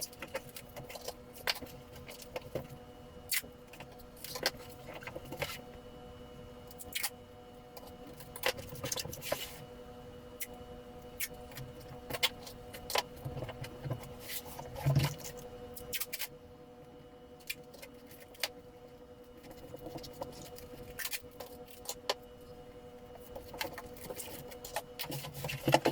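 Adhesive tape being pulled off the roll, torn and pressed onto a large cardboard box: irregular short rips, crackles and knocks of cardboard being handled, over a faint steady hum.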